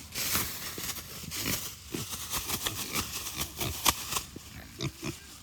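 Kunekune pigs grunting, over a run of irregular rustling and crackling.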